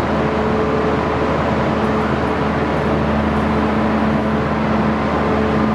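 Renfe intercity train standing at the platform with its on-board machinery running: a steady, unchanging mechanical hum with a low drone and a few constant whining tones.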